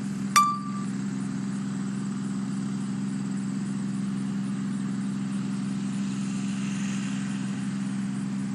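A steady low mechanical hum, like an idling engine, runs throughout. About half a second in there is a sharp click followed by a short electronic beep.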